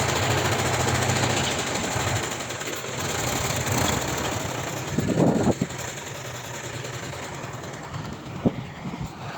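Diesel engine of heavy earthmoving machinery running, with a steady low hum for the first couple of seconds, a louder short burst about five seconds in and a sharp knock near the end.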